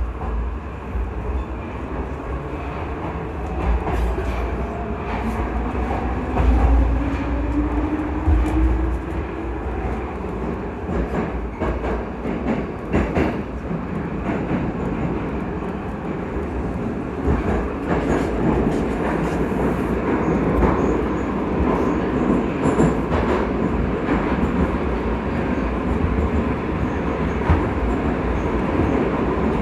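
81-722.1 metro train running, with a rising whine from the traction drive during the first several seconds over a steady low rumble. Scattered clicks of wheels over rail joints come through, and the wheel-and-rail noise grows louder in the second half.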